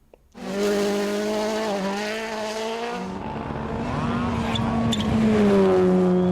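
Rally car engine running at high revs, starting abruptly about half a second in. Its pitch shifts about three seconds in, and two sharp cracks come about a second later.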